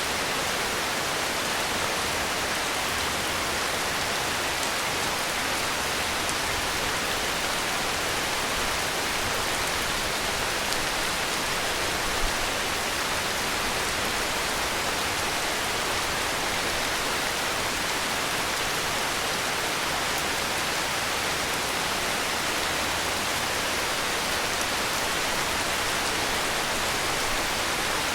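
Heavy rain falling steadily, an even hiss of dense rainfall without breaks, with a faint single drop-like tick about twelve seconds in.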